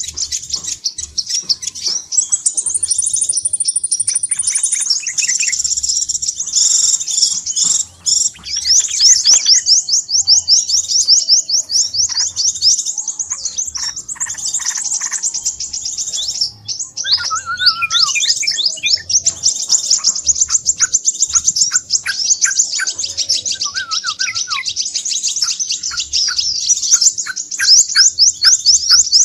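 Crimson sunbird calling without pause: fast, high-pitched chattering trills of many notes a second, with a few lower notes mixed in through the second half, the kind of busy call played to lure sunbirds.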